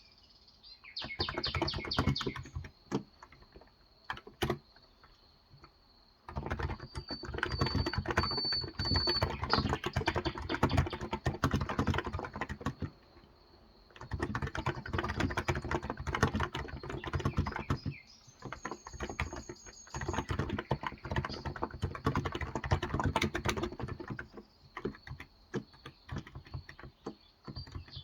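Typing on a Cox Endeavour electro-capacitive (Topre-style) 35 g tenkeyless keyboard: fast key strokes in runs of several seconds, broken by short pauses. Birds chirp in the background.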